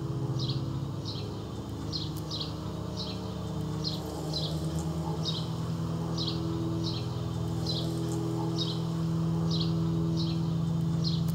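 A bird repeating a short, high chirp a little under twice a second. Underneath is a low, steady drone that grows louder about four seconds in.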